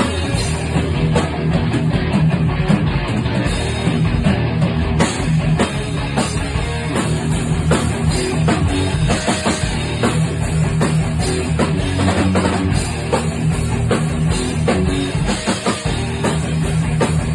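Live rock band playing: distorted electric guitar over bass and a drum kit at a driving beat.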